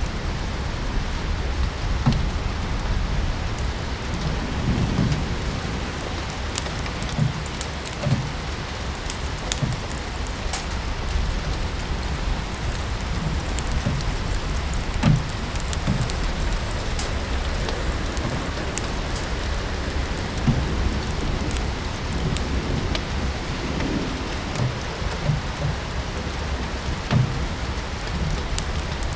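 Steady rain mixed with a wood fire crackling, with scattered sharp pops and short low thuds throughout.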